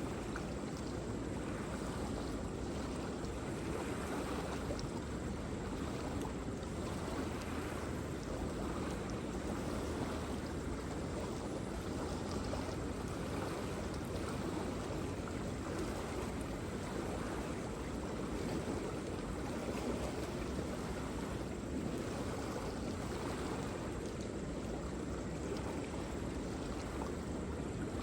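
Waterfall: falling water rushing steadily in an even, unbroken hiss, fullest in the low and middle range.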